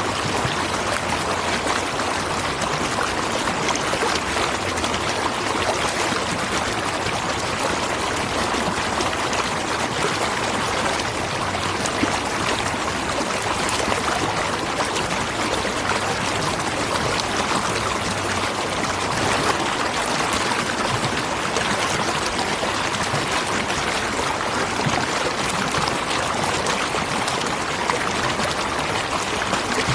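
Natural waterfall: a steady, even rush of falling water, without pause.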